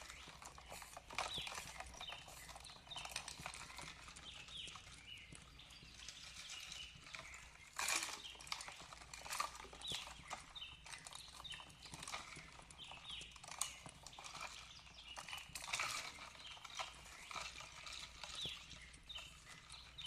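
Fireplace crackling with irregular sharp pops, the loudest about eight and sixteen seconds in, while small birds chirp in short repeated notes over a faint steady hiss.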